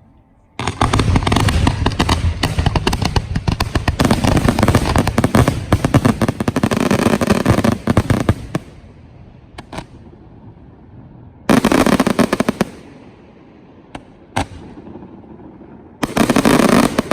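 1.3G professional display fireworks going off: a rapid, dense barrage of bangs and crackling reports starting about half a second in and lasting about eight seconds. Scattered single bangs and two more short barrages follow.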